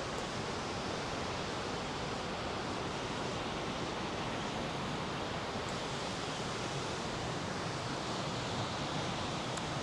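Powerful glacial waterfall thundering: a steady, even rush of falling water.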